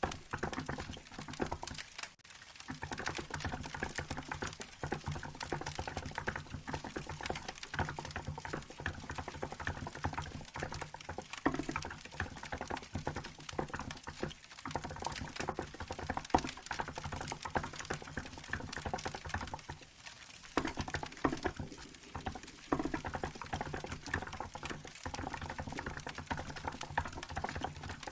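Continuous fast typing on a Hansung GK868B mechanical keyboard with milk-white keycaps, a dense run of key clacks with brief pauses, over a crackling wood-fire sound.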